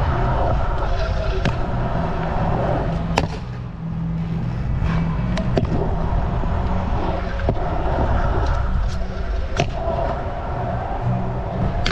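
Scooter wheels rolling over skatepark concrete with a steady rumble, broken by several sharp clacks of wheels and deck striking the ground, the loudest about three seconds in.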